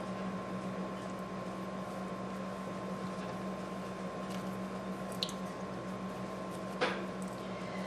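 Soft, quiet squishing of moist food (rice and ground beef) being spread into a dish, over a steady electrical hum; a light click a little past five seconds in and a soft knock near the end.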